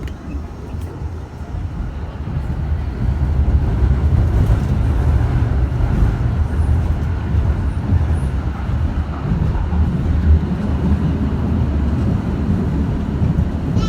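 Düwag M8C tram running, a low rumble that builds over the first few seconds as it gathers speed and then holds steady.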